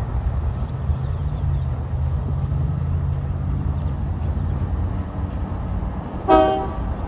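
Low, steady rumble of an idling Union Pacific diesel locomotive. About six seconds in there is one short pitched sound with several overtones.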